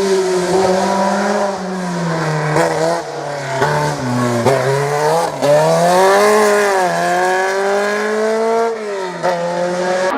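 Rally car engine at high revs, its pitch climbing and dropping several times as the driver accelerates, shifts and lifts off, over a steady rush of tyre and road noise.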